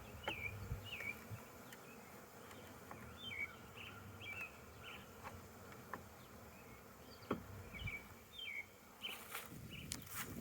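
Honeybees buzzing around an open hive, a faint steady drone from a colony disturbed by being split, with a few light clicks.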